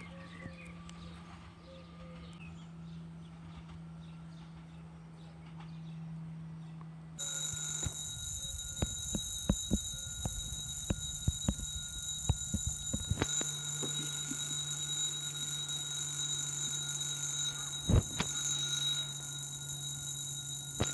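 Railway level crossing warning bell switching on about seven seconds in and ringing steadily, with a run of sharp clicks in the few seconds after it starts and a single knock near the end; a low steady hum sits underneath.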